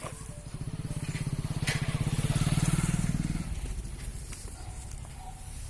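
A motor vehicle's engine chugging at a fast even pulse, growing louder to a peak about three seconds in, then fading as it passes.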